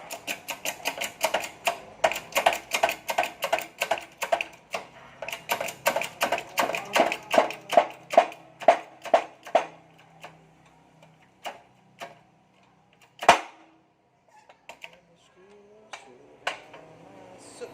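A fast series of sharp metallic knocks, about three a second for some ten seconds, as the Vario 125 crankshaft is pressed together with its new connecting rod. It is followed by a few scattered clicks and one louder knock.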